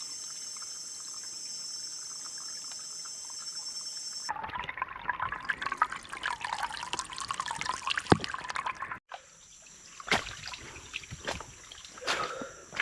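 Water trickling and splashing for about five seconds, the loudest sound, cutting off suddenly. Before it comes a steady high-pitched buzz, which returns afterwards along with scattered sharp clicks and snaps.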